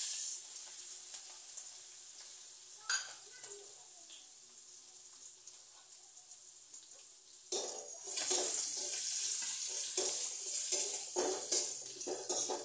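Spices frying in a wok: garlic-coconut paste, curry leaves, cumin and mustard seeds sizzling as the paste goes in. The sizzle dies down over the first half. From about halfway through, a spatula stirs and scrapes the pan and the sizzle rises again.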